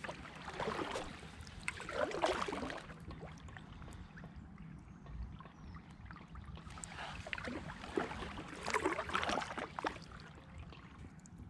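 Kayak paddle strokes in river water: uneven swishes and splashes as the blades dip in, trailing drips, with a quieter lull in the middle.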